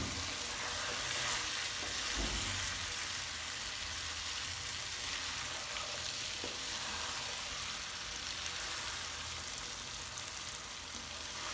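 Boiled white chickpeas frying in oily onion-tomato masala in a nonstick pan, sizzling steadily while a wooden spatula stirs them. This is the bhuna stage, with the masala cooked until the oil separates.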